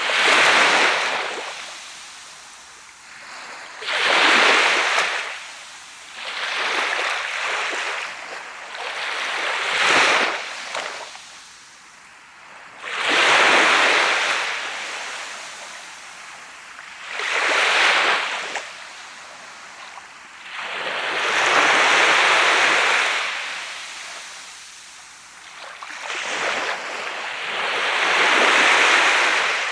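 Sea waves breaking and washing up a sandy beach. About eight surges rise and fade one after another, a few seconds apart, each a rushing hiss.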